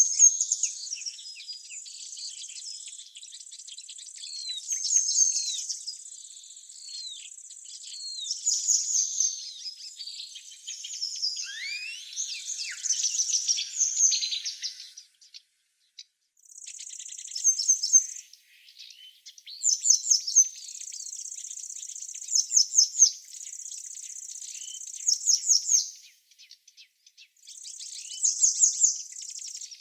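Songbirds chirping and trilling, high-pitched and busy, over a steady high buzz; the sound drops out briefly about halfway through.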